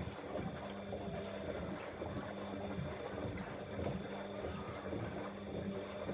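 Bosch Exxcel 1400 front-loading washing machine running a wash: a steady motor hum and whine under the churning, sloshing noise of the turning drum.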